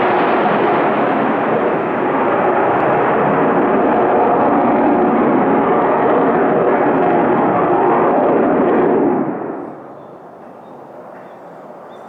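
Jet engine noise of a military fighter jet climbing steeply overhead, very loud and steady. About nine seconds in it falls off quickly to a much fainter, steady jet rumble.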